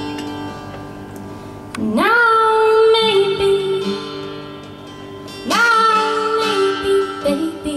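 Live song: a voice sings two long held notes, each sliding up into its pitch, over guitar accompaniment.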